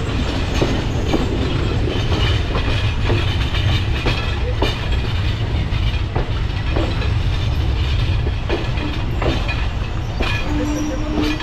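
Passenger train running on jointed track, heard from on board: a steady low rumble from the wheels, broken by irregular clanks and knocks at the rail joints, with a brief steady tone near the end.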